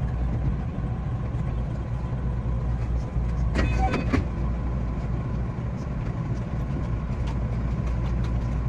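227 series electric train running, heard from the driver's cab as a steady low rumble. About three and a half seconds in there is a brief higher-pitched sound lasting roughly half a second.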